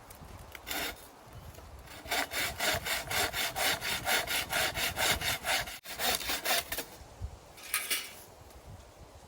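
Hand saw cutting wood: a single stroke, then about five seconds of quick, even back-and-forth strokes with a brief break partway through, and one last stroke near the end.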